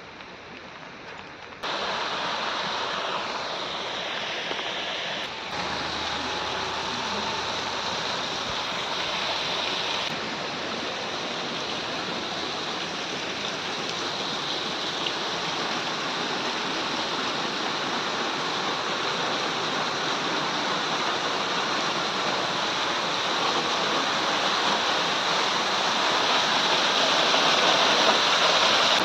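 Monsoon waterfall in full flow, a steady rush of falling water. It jumps up in level about two seconds in and grows slowly louder toward the end.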